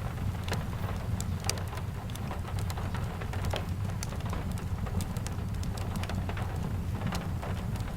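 Steady rain mixed with a crackling wood fire: scattered sharp pops and snaps over a continuous hiss and low rumble.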